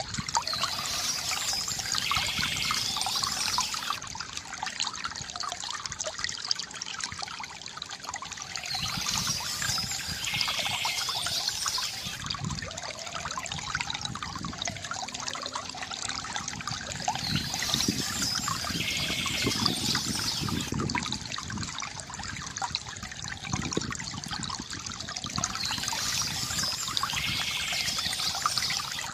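Water trickling and gurgling from a bamboo fountain into its basin. Over it, bursts of high bird chirping come back about every eight seconds, four times.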